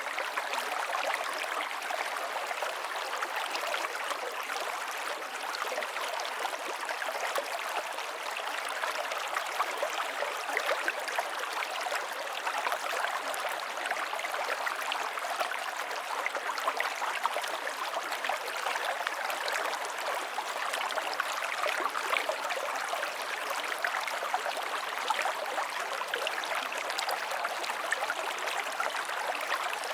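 River water flowing over stones: a steady rush with a constant patter of small splashes, mostly in the middle and upper range and with almost no low rumble.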